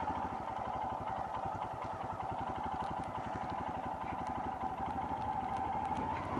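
Royal Enfield Himalayan single-cylinder motorcycle engine idling, a steady, even pulsing beat with no revs.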